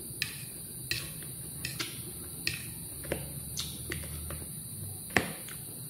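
Close-up chewing of crisp lettuce and cucumber salad, with a fork picking at the plate: irregular sharp crunches and clicks, the loudest about five seconds in.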